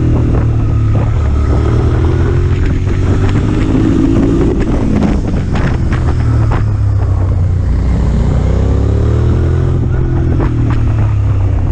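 Motorcycle engine running at speed under heavy wind noise on the microphone, its note rising and falling as the throttle is opened and eased.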